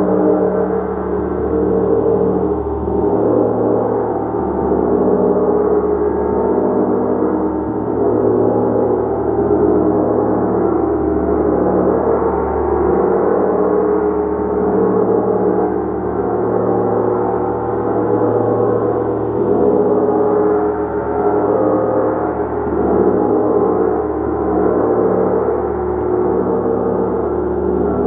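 Gong played continuously: a dense, steady wash of many overlapping tones that swell and ebb slowly, with no distinct strikes standing out.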